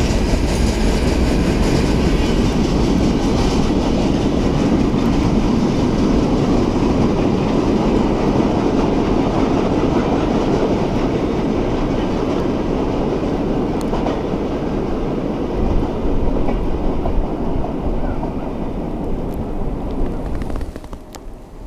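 A train's wagons rolling past on the rails: a steady loud rumble of wheels on track with a few clicks. It falls away sharply near the end as the train clears.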